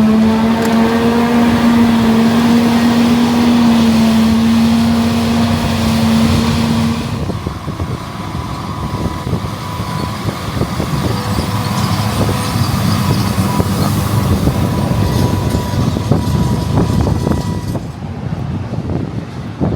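Heavy farm machinery running during forage harvesting. A steady engine drone for about the first seven seconds changes abruptly to a rougher, noisier machine sound with a faint high steady tone, and the sound changes again near the end.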